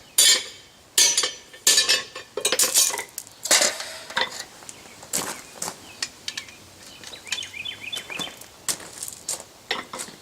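Hand hammer striking a hole punch on hot steel over the anvil, shearing out the plug of a punched hole, with metal ringing on each blow. A run of hard blows in the first few seconds gives way to lighter, irregular taps.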